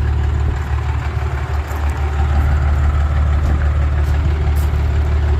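12-valve Cummins 5.9 turbo diesel idling steadily through a 4-inch straight pipe, a deep, even low rumble.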